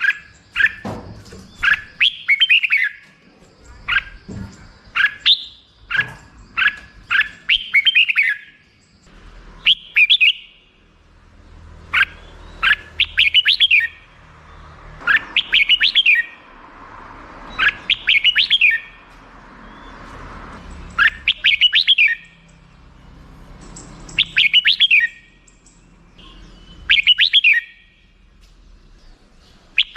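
Red-whiskered bulbul singing: short, bright, rapid phrases of chirping notes. The phrases come close together at first, then repeat every two to three seconds.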